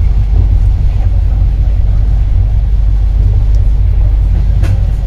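Steady low rumble of an Intercity passenger coach rolling slowly along the track, heard from inside the carriage, with a single sharp click about four and a half seconds in.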